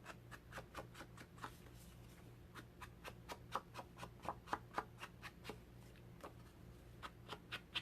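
Ink sponge dabbed on an ink pad and around the edge of a paper card panel: a run of soft, irregular taps, several a second.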